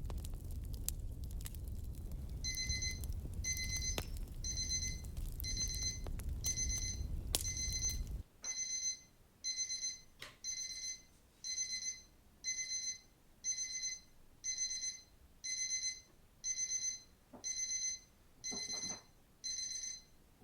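Electronic timer alarm beeping about once a second, each beep a short high-pitched pip, signalling the end of a Pomodoro session. Fireplace crackling runs under the first beeps and cuts off suddenly about eight seconds in, leaving the beeping alone.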